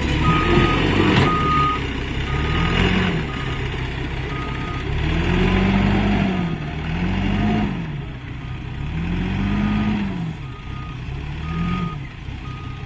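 CASE backhoe loader at work: its diesel engine revs up and falls back again and again, five or six times, while its reversing alarm beeps steadily about once a second.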